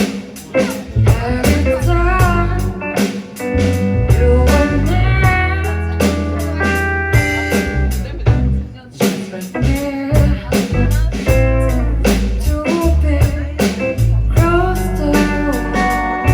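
Live band playing a song: guitar and drum kit with a singing voice.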